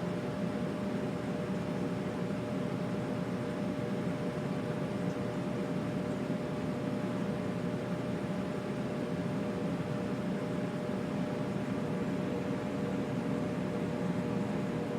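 Home HVAC system running steadily: a constant rumble of air moving through the ducts and vents, with a faint steady hum from the blower.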